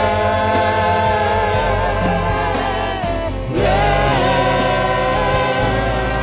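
Gospel praise-and-worship singing with a choir and instrumental accompaniment: voices hold two long notes, the second scooping up into place about three and a half seconds in.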